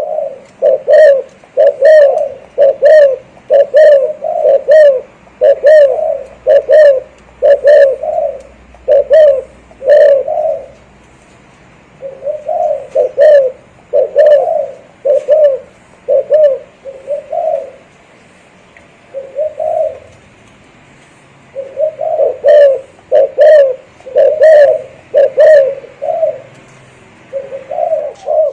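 Spotted dove giving loud, repeated coos in the rolling 'thổ rền' style, about one note a second. The coos come in runs with a few short pauses.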